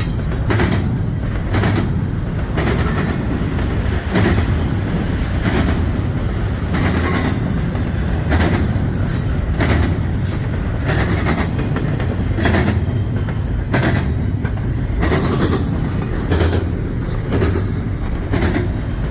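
Long intermodal freight train rolling past at speed: a steady low rumble of the cars, with the rhythmic clickety-clack of wheels over rail joints about twice a second and a brief high wheel squeal near the middle.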